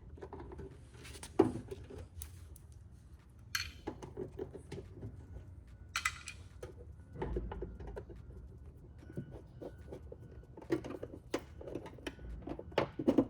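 Small clicks and clatters of a screwdriver backing out Phillips screws and plastic trim clips being worked out of a Mercedes-Benz Sprinter front door panel, with a sharp click about a second and a half in.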